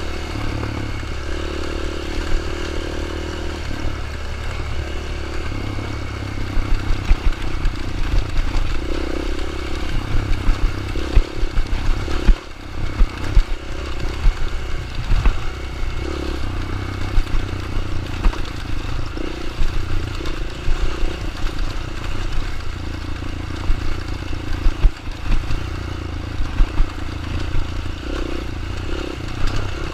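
Dirt bike engine running steadily, with irregular clattering knocks throughout.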